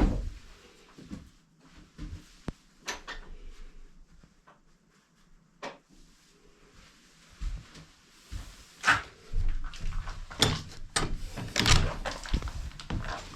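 Scattered knocks and clunks with a few sharp clicks, like wooden fittings or a door being handled. From about nine seconds in, a low rumble sets in under louder, more frequent knocks.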